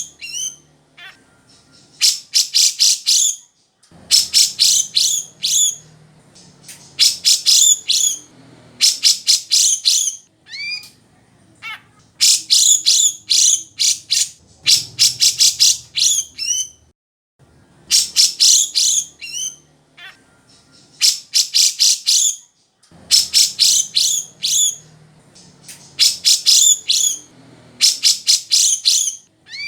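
Grey-cheeked bulbul (cucak jenggot) singing: loud bursts of rapid, high, chattering whistled notes, each burst a second or two long, repeated every couple of seconds with short pauses between.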